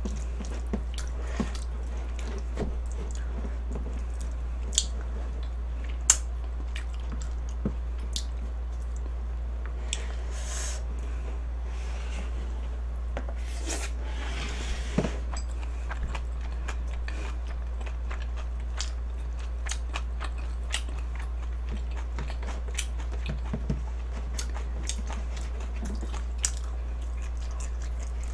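A person chewing and biting mouthfuls of spicy bulgogi and rice, with wet smacks and scattered small clicks, and a couple of short rushing sounds about ten and fourteen seconds in. A steady low hum runs underneath.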